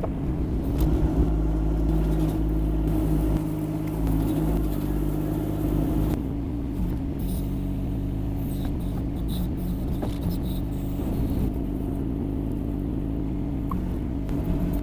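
Yanmar diesel engine of a Kymron XH20D mini excavator running steadily as the machine drives, with a few short knocks.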